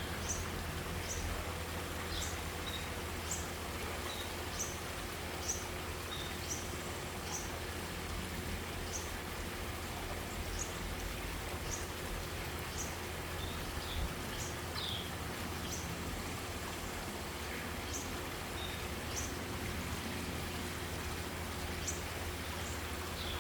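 Parent songbird calling to its fledglings: short, high, downward chirps repeated every half second to a second, with a few lower notes, over a steady low hum.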